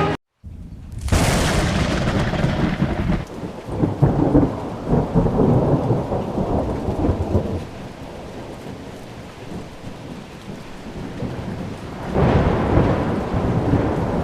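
Thunderstorm: a loud clap of thunder about a second in rumbles on for several seconds over steady rain, and a second roll of thunder swells up near the end.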